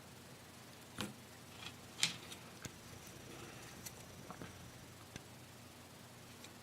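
Light clicks and taps of small parts being handled on a workbench: a resistor's wire leads and the circuit board knocked and fitted by hand. About half a dozen scattered ticks, the loudest about two seconds in.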